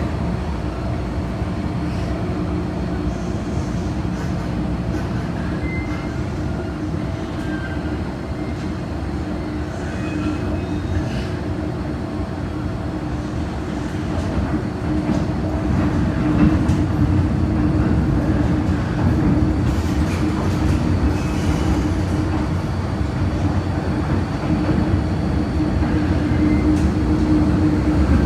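MTR Kwun Tong line M-Train running between stations, heard from aboard: a continuous rumble and rail noise with a steady motor hum, growing louder about halfway through.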